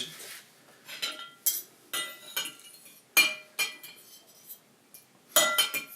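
Cutlery clinking against dishes while eating: a string of sharp, short clinks with a brief ring, spaced out at first and then a quick cluster near the end.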